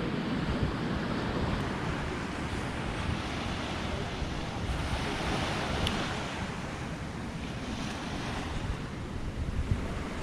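Ocean surf washing onto the shore, steady, with wind buffeting the microphone.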